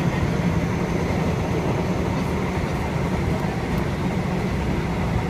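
Passenger train running along the rails, heard from on board: a steady low rumble with no clear breaks or clicks.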